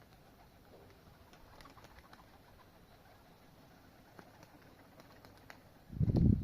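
Faint pigeon cooing with a few soft clicks. Near the end a loud low rumbling begins abruptly.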